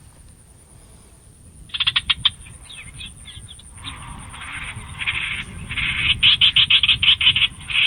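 Rapid, pulsed animal calls in a repeated chattering series. A few short bursts come about two seconds in, then a denser run grows louder toward the end.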